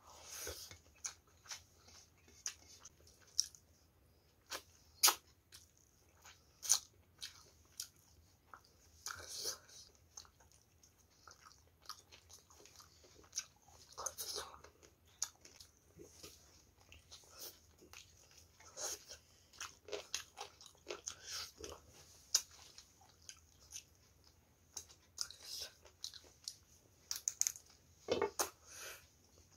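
Close-up eating sounds: a person chewing rice and chicken, with many short irregular mouth clicks and smacks, and biting at a chicken drumstick. A louder cluster of chewing sounds comes near the end.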